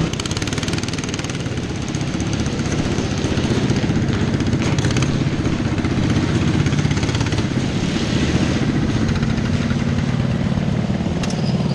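Racing lawn mower engines running hard and loud, with a rapid, steady firing rhythm.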